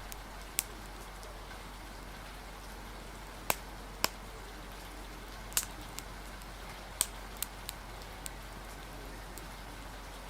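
Steady rain hiss with irregular sharp crackles and pops from a wood fire, about eight scattered through.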